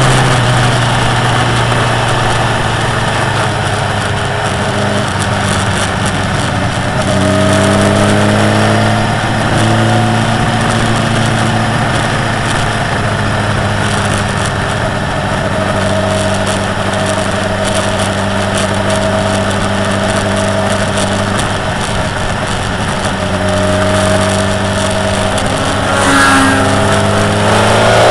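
Motorcycle engine running under load while riding at speed, heard on board with a constant rush of wind. The engine note steps up about seven seconds in and revs climb near the end as it accelerates out of a bend.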